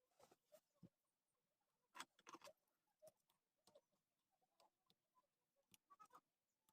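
Near silence with faint, irregular small clicks and taps, a little cluster about two seconds in and another near the end.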